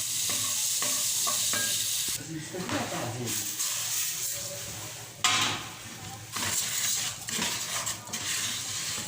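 Rice and garlic sautéing in hot oil in a pan, sizzling as they are stirred with a spoon. The sizzle dies down about two seconds in and flares up again loudly a little past halfway.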